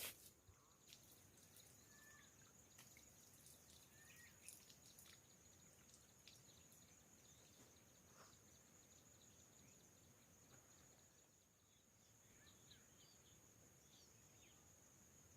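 Near silence with a faint, steady, high-pitched insect trill of crickets, broken by a few faint bird chirps and small ticks.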